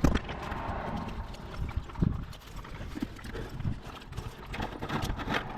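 Irregular knocks and thumps, the loudest right at the start and about two seconds in, with smaller ones scattered between.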